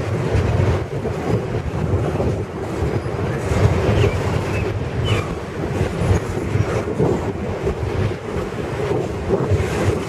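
Double-stack container well cars rolling past: a steady rumble and clatter of steel wheels on rail, with a few brief high wheel squeaks.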